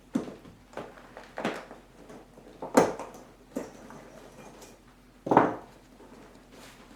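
Irregular sharp metal clicks and clinks, with two louder ones about three and five seconds in: hand tools working the steel hog rings that hold an old seat cover to the seat frame.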